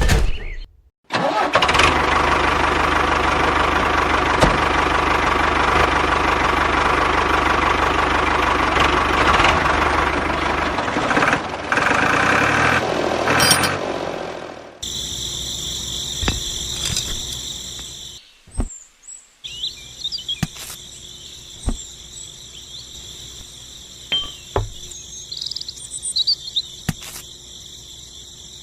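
A small machine runs loudly with a dense whirring rattle for about fourteen seconds, then stops at a cut. After that, insects chirp steadily at a high pitch, with scattered light clicks.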